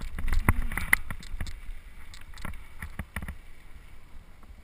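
Mountain bike rattling over a rough trail: irregular sharp knocks and clicks from the bike over a low rumble, busiest in the first second or so.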